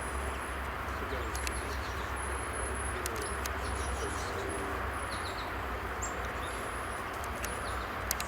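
Wild birds calling: scattered short, high chirps and whistles with a few lower sliding notes, over a steady low rumble and hiss.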